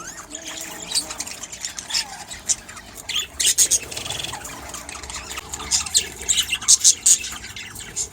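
A flock of budgerigars chattering and squawking in an aviary, with many short, sharp, high calls that are busiest around the middle and near the end.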